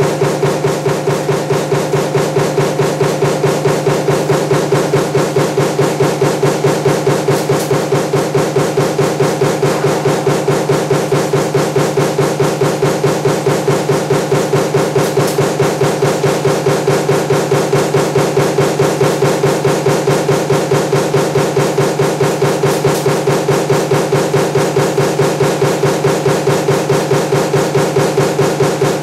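Power press running a progressive die for table fan motor laminations, stamping continuously in a fast, even rhythm of strokes over a steady hum.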